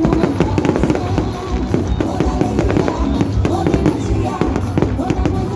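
Fireworks going off in a rapid, dense string of bangs and crackles, with loud music playing alongside.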